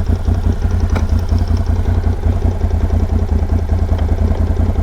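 Can-Am Outlander ATV engine running steadily, with a brief click about a second in.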